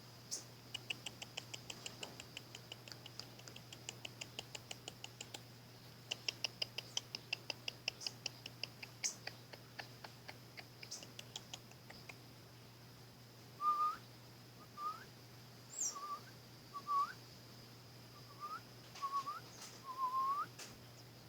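Birds calling: first long runs of rapid short clicking notes, about five or six a second, then, from about two-thirds of the way in, a series of short whistled notes that each hook upward in pitch. A steady faint high tone runs underneath.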